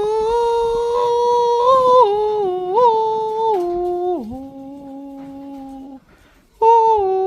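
A man humming a tune in long held notes that step down in pitch, breaking off about six seconds in and starting again.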